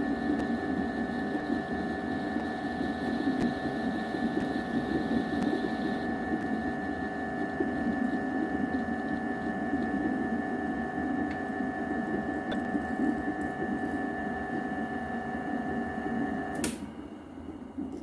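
A small electric motor running steadily with a constant pitched drone, then switched off with a click near the end.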